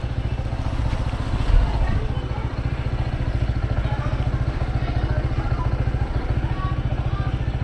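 Motorbike engine idling with a steady, even low pulse, and a brief low thump about a second and a half in.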